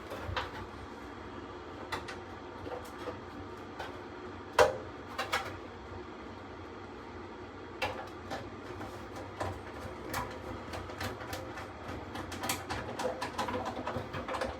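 Sheet-metal parts and hand tools being handled while a furnace blower assembly is fastened back together: scattered clicks and knocks, one sharper knock about four and a half seconds in and quicker clicking near the end, over a low steady hum.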